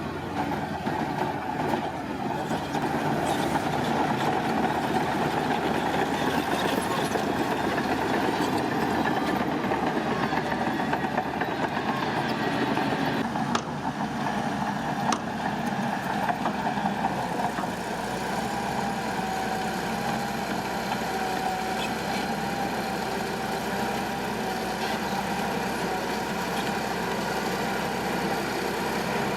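Diesel engine of heavy earthmoving machinery running steadily, a little louder in the first half and settling lower about two thirds of the way through, with a faint whine over it in the later part.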